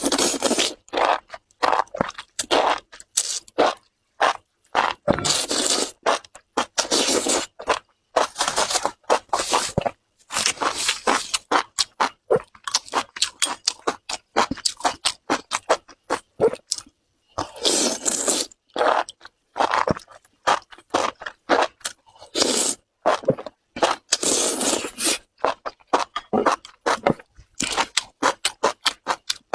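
Close-miked chewing of spicy enoki mushrooms: a dense run of quick, wet, crunchy mouth clicks, broken by a few longer noisy stretches.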